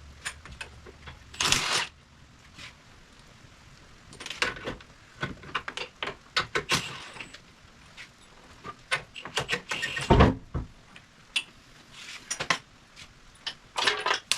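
Metal tools and parts being handled: a string of short clanks, knocks and scrapes, with a heavy, low thud about ten seconds in.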